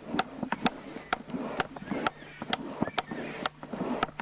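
A blacksmith's hammer striking hot iron on a small block anvil, a steady run of about two ringing blows a second, drawing out a point on the iron.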